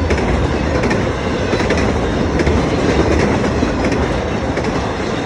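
A train's cars rolling past steadily, wheels clicking over the rail joints with a continuous rumble.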